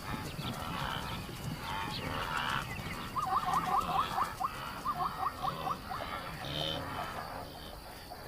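Wild animal calls in a night-time ambience, including two quick runs of short, falling calls repeated about six times a second, with a steady low rumble beneath.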